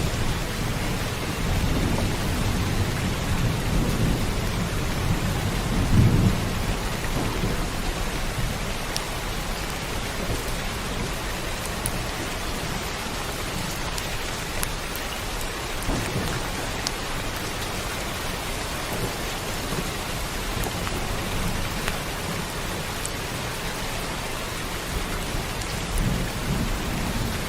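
Steady heavy rain hissing, with rolling thunder rumbling low in the first half, loudest about six seconds in, and again near the end. A few sharper drop ticks stand out from the rain.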